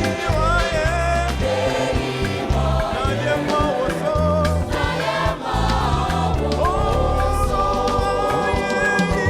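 Gospel choir singing with a live band, a bass line under sustained sung notes.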